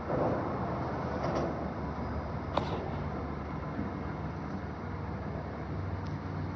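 Local train pulling forward: a steady low rumble with a hum underneath, and a single sharp click about two and a half seconds in.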